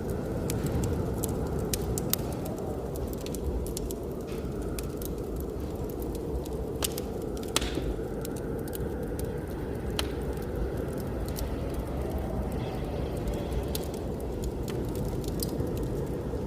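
Wood fire crackling, with scattered sharp pops, over a steady low rush of blizzard wind.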